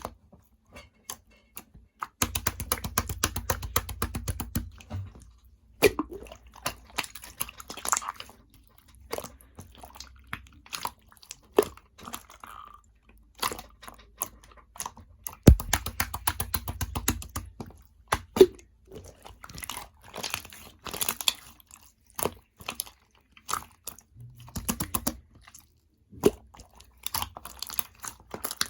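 Purple slime with pearl beads mixed in being squished and pressed by hand, giving crackling clicks and wet pops. Twice, about two seconds in and again past the middle, it breaks into a run of rapid crackling lasting a couple of seconds.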